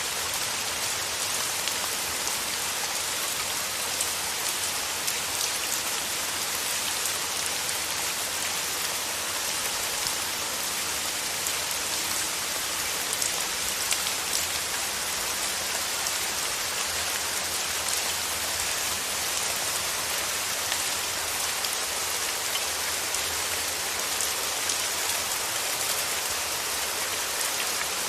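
Steady rain falling: a dense, even hiss of rain with many small drop ticks and patters.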